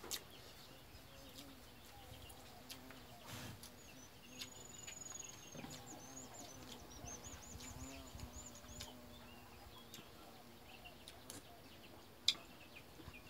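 Faint birdsong: high, quickly repeated chirping trills through the middle, over a quiet rural background. Small clicks of a spoon against a bowl run through it, with one sharper click near the end.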